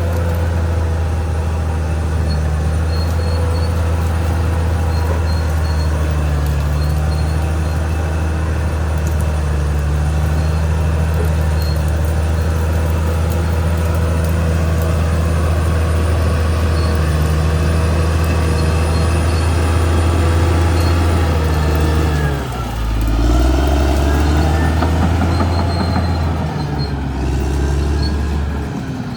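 Caterpillar D6R XL bulldozer's diesel engine running steadily under load. About 22 seconds in, and again near the end, the engine note briefly drops and climbs back.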